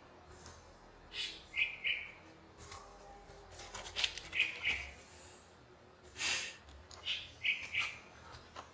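A songbird calling in the background, repeating a short three-note phrase (a brief rising note, then two quick notes) about every three seconds, three times.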